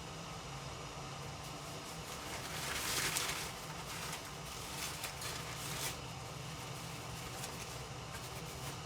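A steady mechanical hum, with a brief rustling noise about three seconds in and a few light knocks between about five and six seconds.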